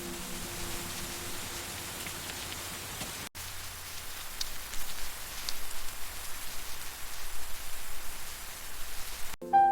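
Rain falling, a steady hiss of drops. After a brief break about a third of the way in, it comes back choppier, with irregular louder drops and patters.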